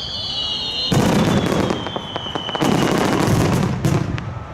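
Fireworks shells bursting overhead: a loud boom about a second in and another about two and a half seconds in, each followed by crackling, and a smaller burst near the end. A high whistle slowly falls in pitch through the first half.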